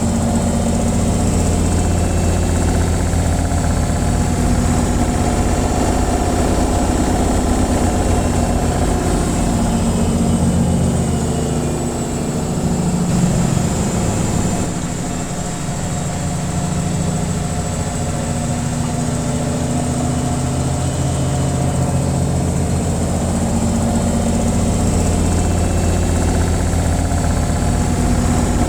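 Washing machine on its spin cycle: a steady low hum from the spinning drum and motor. It dips briefly and shifts in pitch about halfway through.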